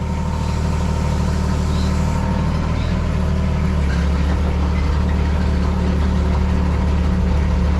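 Heavy diesel engine of an excavator or truck, running steadily with a low, even drone.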